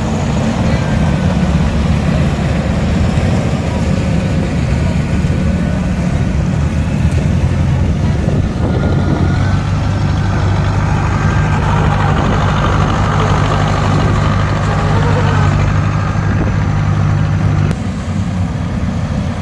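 Rice combine harvester's engine running steadily. Its pitch changes about eight seconds in, and it drops somewhat in level near the end.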